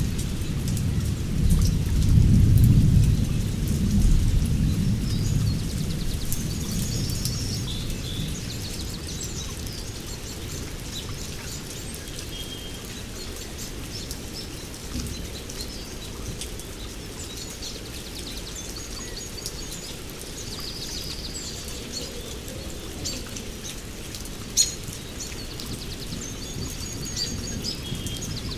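Steady rain falling in a rainforest, with thunder rumbling loudly in the first few seconds and fading away. Birds chirp and call through the rest, and a single sharp tap stands out near the end.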